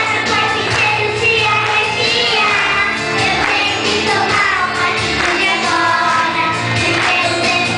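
Children's choir singing a Portuguese gospel hymn over instrumental accompaniment, loud and continuous.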